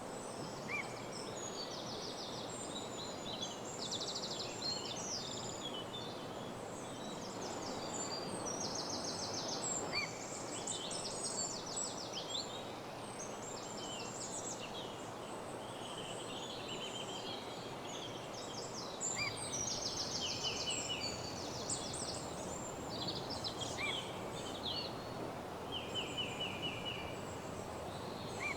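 Woodland morning bird chorus: several songbirds singing at once, with many rapid trills and chirps overlapping throughout, over a steady background hiss.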